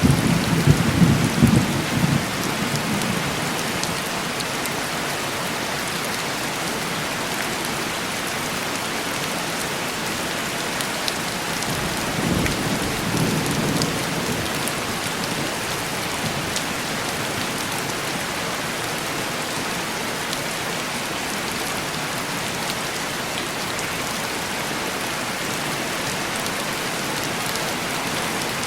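Steady heavy rain tapping on window glass. Low thunder rumbles through the first few seconds and again a little before halfway.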